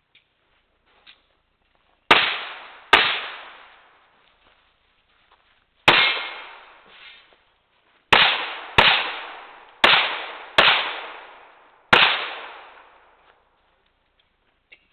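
Eight pistol shots fired during an IPSC course of fire, spaced unevenly over about ten seconds, some close together in pairs, each with a ringing echo that dies away.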